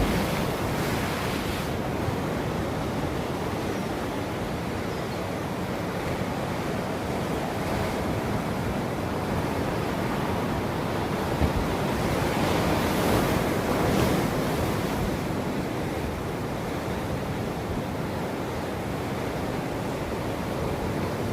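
Ocean surf: waves breaking and washing ashore in a continuous rush, with one wave swelling louder about two-thirds of the way through.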